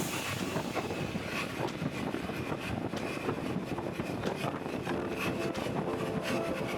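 Motorcycle riding at speed: engine running steadily under a rush of wind noise.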